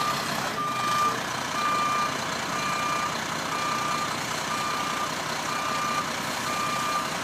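A truck's reversing alarm beeping steadily, one same-pitched beep about once a second, about seven in all, over the steady noise of the truck.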